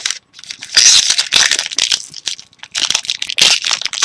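Trading-card pack wrappers crinkling and rustling in a run of irregular crackly bursts as a new pack is handled and opened.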